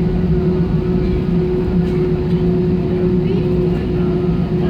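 Steady droning hum and rumble inside the cabin of an Airbus A320 airliner on the ground, with a constant mid-pitched tone over it. Faint voices of other passengers are heard in the background.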